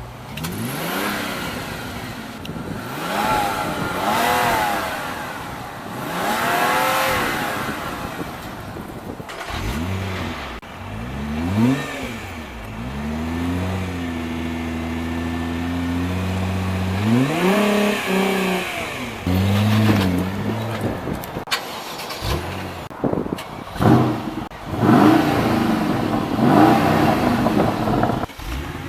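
Supercar engines revving and driving past, with a rising-then-falling pitch on each pass. Partway through, one settles into a steady idle between blips of the throttle. A few sharp cracks sound near the end, followed by more revving.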